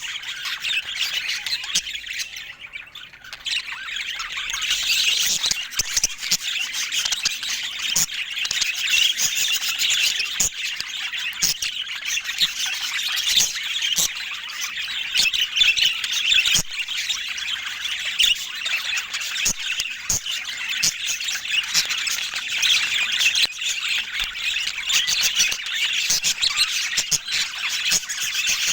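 Several budgerigars chattering and squawking in a continuous dense stream of calls, with sharp clicks mixed in and a short lull about two to three seconds in.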